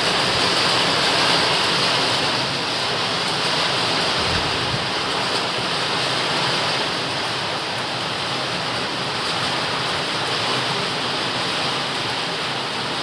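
Steady rain falling, a dense, even hiss with no pauses.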